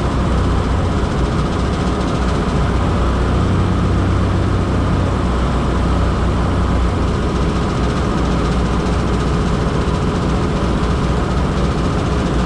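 Old 1941 truck's engine running steadily with road noise, heard from inside the cab while driving.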